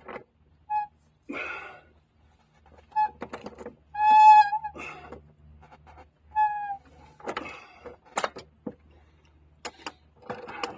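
Short high squeaks, the loudest about four seconds in, then scattered knocks and clicks in the second half, as a tire is worked off a small tow truck.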